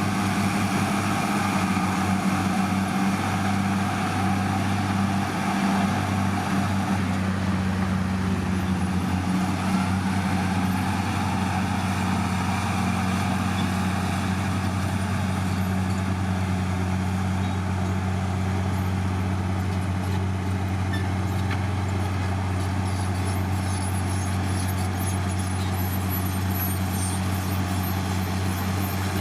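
Diesel engine of heavy earthmoving machinery running steadily, an even low drone with no pauses.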